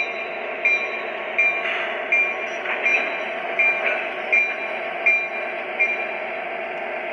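Sound-equipped model diesel locomotive's sound unit playing a steady diesel engine rumble, with the locomotive bell ringing evenly about one and a half strikes a second as the train is cleared to depart.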